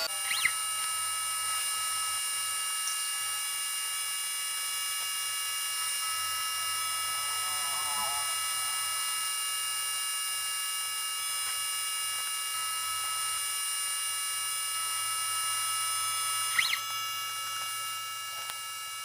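CNC 3018 Pro diode-laser engraver running a job: a steady high electronic whine of several fixed tones from its stepper motors and laser driver, with a short rising-and-falling chirp about half a second in and again near the end.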